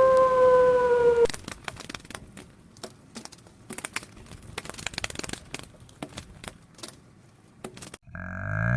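A dog howling on one long, slightly falling note that cuts off about a second in. Then comes a stretch of faint, irregular crackling and clicking. Near the end a cow starts to moo.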